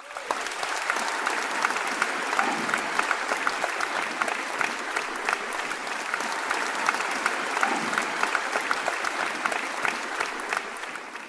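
Audience applauding: many hands clapping steadily, tailing off near the end.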